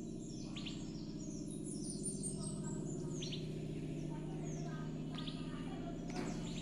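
Several birds chirping, with many short, quickly falling calls repeated throughout, over a steady low hum.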